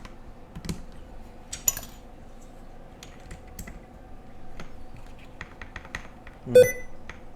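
Mechanical keyboard keys on a Monka 3067 with KTT Coconut Latte switches and Cherry-profile keycaps, pressed one at a time in an uneven run of clacks. A louder clack about six and a half seconds in ends in a brief metallic ring.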